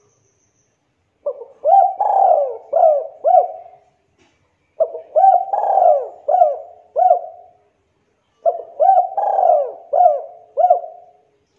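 Spotted dove (tekukur) cooing: three phrases of about five coos each, with short pauses between them.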